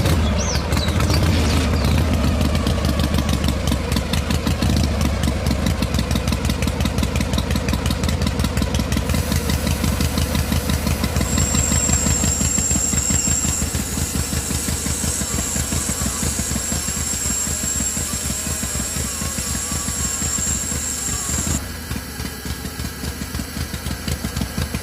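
A small engine running steadily with a rapid, even chugging pulse. A thin high whine joins in about halfway and stops, and the sound drops a little in level near the end.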